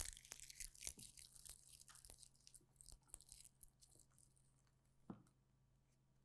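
Dry leaves rustling and crackling as they are handled, loudest in the first second and thinning into scattered small crackles, with one soft knock about five seconds in.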